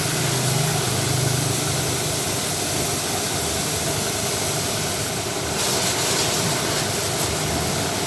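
A small engine running steadily, with a constant hiss over a low hum.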